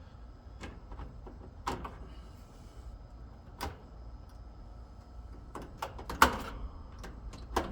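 Wire terminals being pulled off the spade terminals of an AC condenser's dual run capacitor: scattered clicks and clacks, the loudest about six seconds in, over a low steady rumble.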